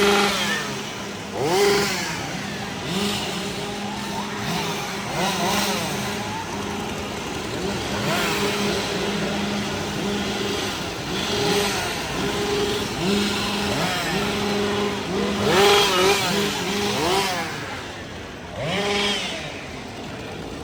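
Chainsaw engines idling with a steady drone and revved up in repeated short bursts, each rev rising and falling in pitch.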